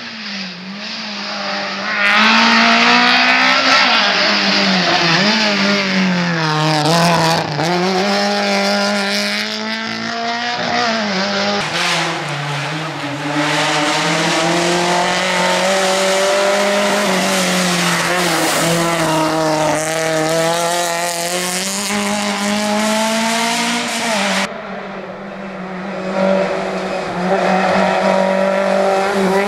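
Skoda Favorit rally car's four-cylinder engine under hard driving, its revs climbing and dropping again and again through gear changes.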